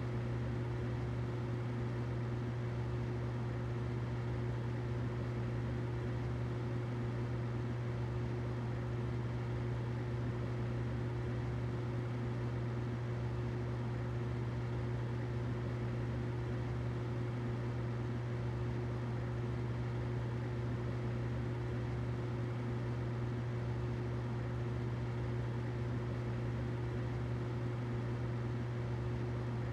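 Humidifier running steadily: a constant low hum with a fainter higher tone over a soft even hiss.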